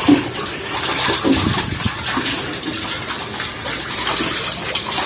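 Running water gushing and splashing steadily, loud and close.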